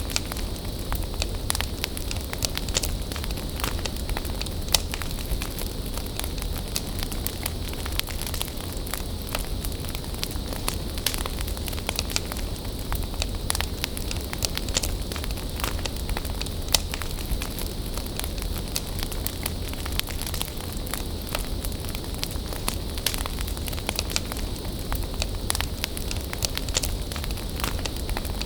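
Wood bonfire burning, with continuous crackling and frequent sharp pops and snaps from the burning wood over a steady low rumble.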